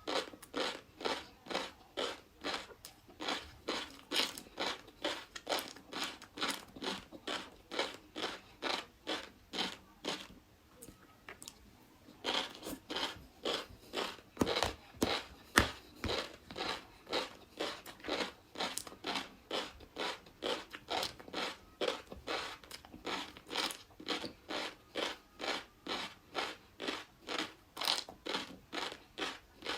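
Close-miked chewing of crunchy food: steady rhythmic crunches, about two or three a second, stopping for about two seconds near the middle before resuming.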